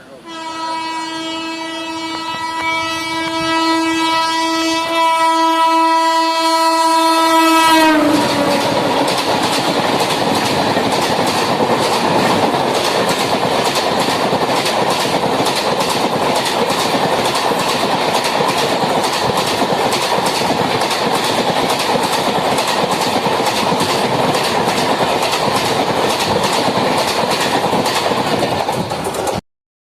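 An Indian Railways WAP-7 electric locomotive sounds its horn in one long blast that drops in pitch as it passes close by at high speed, about 8 seconds in. Its express coaches then rush past with a loud, rapid clickety-clack of wheels over rail joints, which cuts off suddenly near the end.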